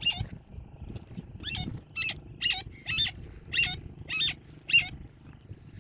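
A parrot calling repeatedly: a run of about eight short calls, each dropping in pitch, roughly one every half second.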